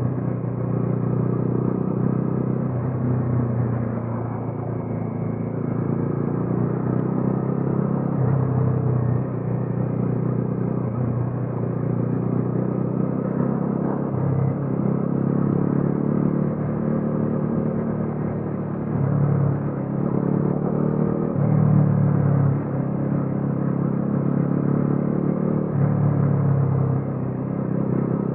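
Bajaj Dominar 400's single-cylinder engine and exhaust heard while riding, the engine note stepping up and dropping back several times as the throttle opens and closes.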